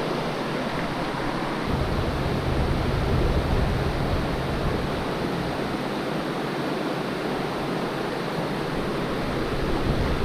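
Steady rushing of creek water, with a low rumble that swells for a few seconds near the start.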